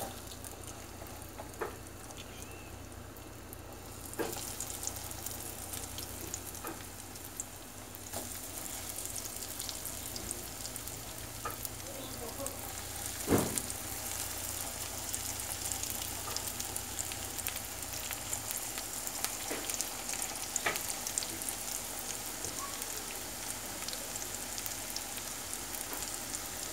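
Breaded chicken schnitzels deep-frying in hot oil in a nonstick pan: a steady sizzle that grows louder about four seconds in and again around eight seconds as more pieces go into the oil. A few sharp clicks of a fork against the pan, the loudest about halfway.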